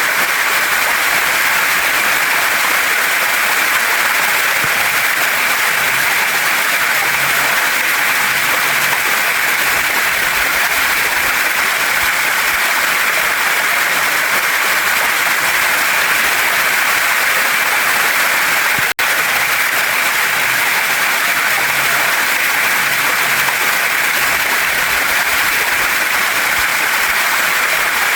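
Waterfall and stream water rushing in a loud, steady roar of white-noise-like spray and flow, broken by a momentary dropout about two-thirds of the way through.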